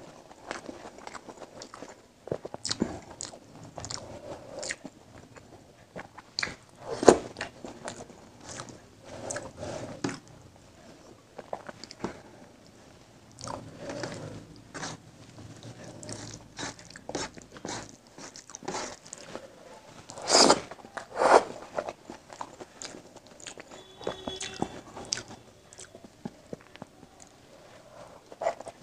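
Chewing and wet mouth sounds of a person eating rice and egg curry by hand: irregular short smacks and clicks, a few louder ones about 7 s and 20 s in, along with fingers mixing rice into curry on a steel plate.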